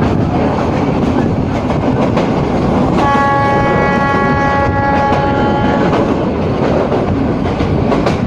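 Train running along the track with a steady rumble and clatter. About three seconds in, the locomotive's horn sounds one steady blast lasting about three seconds.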